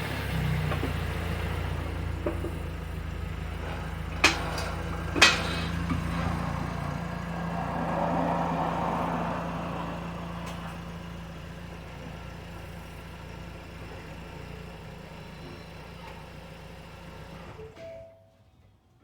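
2019 Ford Escape's 2.5-litre four-cylinder engine running just after its oil change, with two sharp clicks about four and five seconds in. The sound swells about eight seconds in, then fades and stops near the end.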